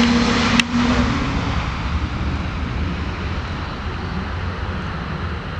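Jet airliner engine noise, a broad steady rush that slowly fades away. A sharp click comes about half a second in, and a low hum dies out soon after.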